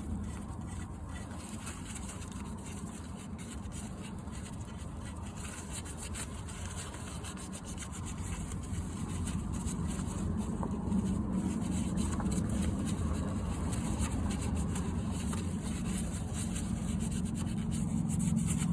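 Rubbing and wiping, as a rag or paper towel scrubs oil off the drain plug area of the oil pan. Under it runs a steady low hum that grows louder toward the end.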